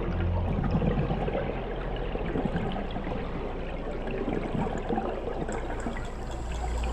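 Water noise heard underwater: a steady, muffled rushing with a low hum underneath and a few faint ticks.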